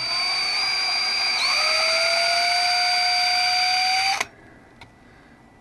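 Power drill spinning a twist drill bit through a small replacement fuel-pump fitting to widen its bore: a steady whine that dips briefly about a second and a half in, then cuts off suddenly about four seconds in.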